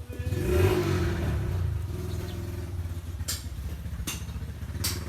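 A small engine starts up, revs briefly and settles into a steady, evenly pulsing idle. Two sharp clicks come near the end.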